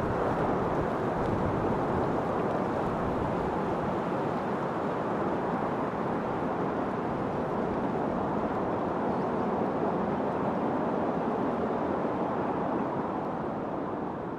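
Wind blowing steadily, an even rushing noise that eases slightly near the end.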